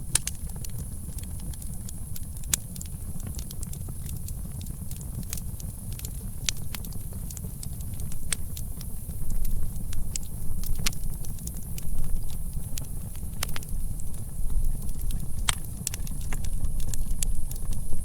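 Campfire crackling: irregular sharp pops and snaps over a steady low rumble of wind and flame.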